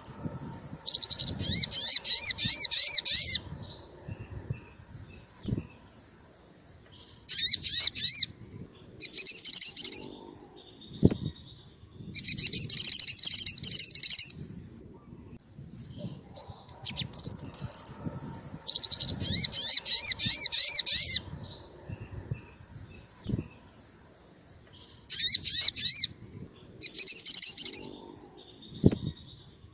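Sogon, a small songbird of the sunbird family, singing sharp, rapid, high-pitched trills. The phrases last one to two seconds each and are repeated about seven times with short pauses between them.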